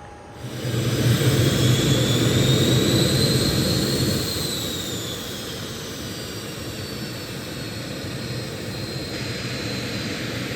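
Cessna Citation 500 business jet's twin turbofans at takeoff power, passing by. A loud jet roar with a high whine that rises and then falls, loudest about four seconds in, then easing off to a steadier, quieter rumble as the jet moves away.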